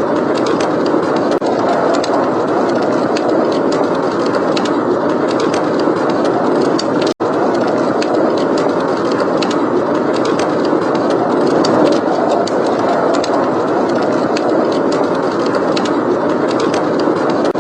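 Steady rush of blizzard wind with a wood fire crackling over it in frequent small, sharp pops. The sound cuts out for a split second about seven seconds in.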